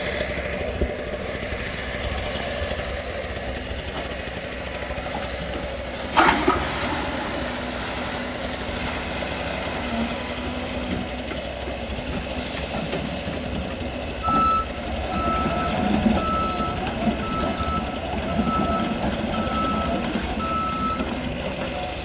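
Heavy construction machine engine running steadily, with a single sharp clank about six seconds in. From about fourteen seconds a backup alarm beeps at one pitch, about once a second, for some seven seconds as a machine reverses.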